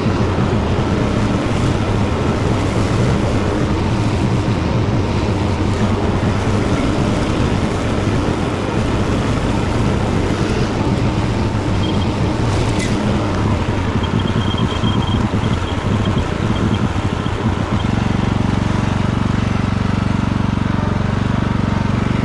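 Tractor engine running steadily while mowing grass. About eighteen seconds in, its note turns smoother and more even.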